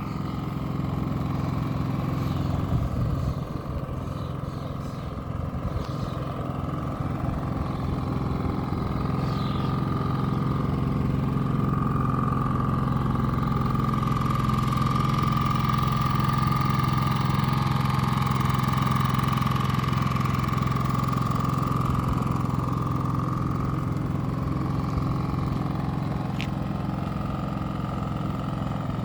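Champion 4500-watt inverter generator's 212cc engine running steadily, a low hum with a higher whine that grows stronger through the middle and eases toward the end.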